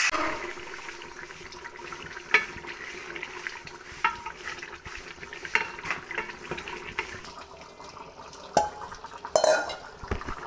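Spoon stirring in a metal cooking pot, scraping and clinking against it every second or two.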